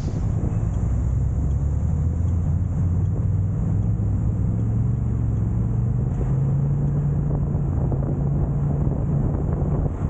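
A vehicle engine running steadily, a low drone whose pitch rises slightly about six seconds in.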